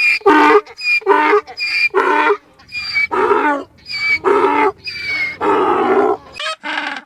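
An animal calling over and over: about eight harsh calls of roughly half a second each, in quick, even succession, ending abruptly near the end.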